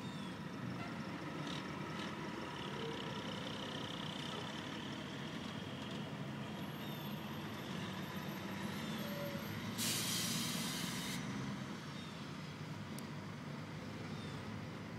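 Dump truck engine running steadily, with a loud hiss of air brakes releasing about ten seconds in, lasting just over a second.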